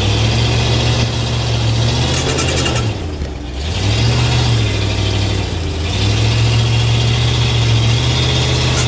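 Truck engine revving under throttle as the driver tries to climb a slope: it eases off about three seconds in, picks up briefly around four seconds, then holds high again from about six seconds on.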